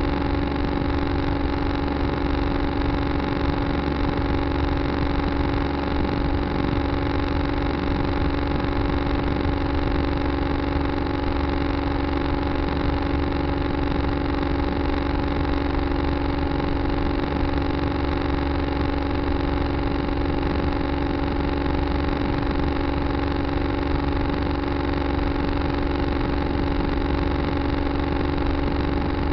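Tractor engine running at a steady, unchanging speed, with a constant droning hum over a low rumble.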